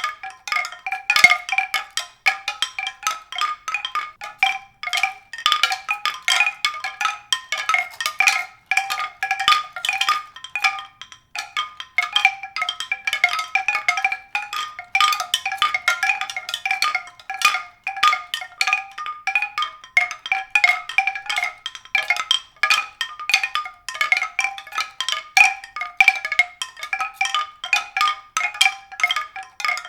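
Tuned percussion: many quick ringing strikes, several a second without pause, sounding a few fixed pitches.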